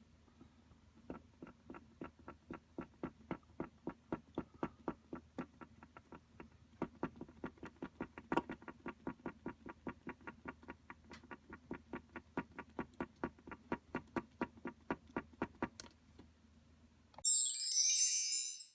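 Kuru Toga mechanical pencil clicking in an even rhythm, about four clicks a second, pausing briefly partway through, over a faint steady hum. A short, loud, high-pitched burst of sound comes near the end.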